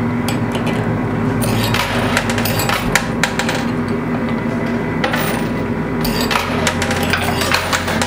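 Quarters dropping and clinking on the playfield of an arcade coin pusher, many short metallic clicks over a steady low hum.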